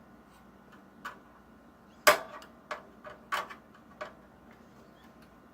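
Flathead screwdriver clicking and knocking against metal computer parts as it works at a screw, in a handful of separate sharp strikes, the loudest about two seconds in.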